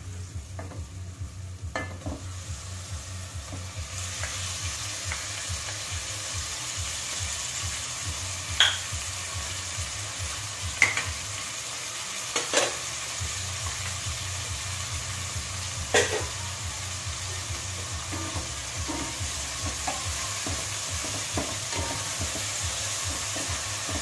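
Ground pork sizzling as it fries in a pot with sautéed onion, garlic and tomato. The sizzle grows louder about four seconds in, once the meat is in the pot. Four sharp clinks of a spoon against the plate and pot sound through the frying.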